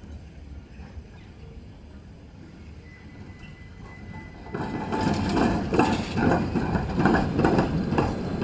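Low steady hum for the first half. About four and a half seconds in, a tram starts up loudly with an uneven clattering rumble.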